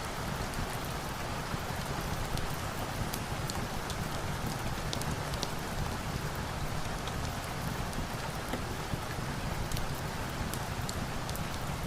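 Steady rain, a dense even hiss, mixed with a wood fire crackling: scattered sharp little pops sound through the rain.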